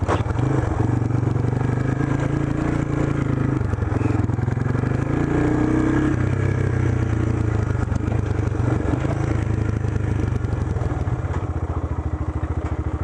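Small single-cylinder four-stroke off-road engine running at low, fairly steady revs, its pitch shifting only slightly now and then.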